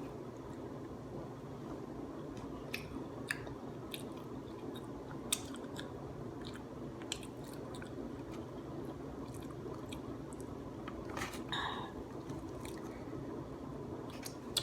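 A person chewing and biting food close to the microphone, with scattered short crunches and clicks every second or so over a steady low background hum.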